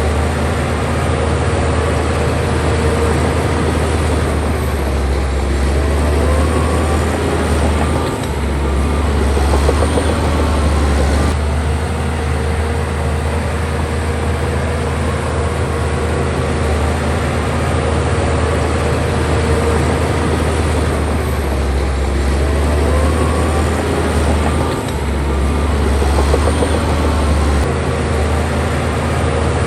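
Crawler bulldozer's diesel engine running steadily under load, a deep drone that swells twice as the machine works, with faint high squeals over it.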